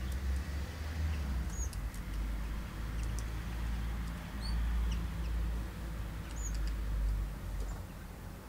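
A few short, high bird chirps over a constant uneven low rumble, which is the loudest sound.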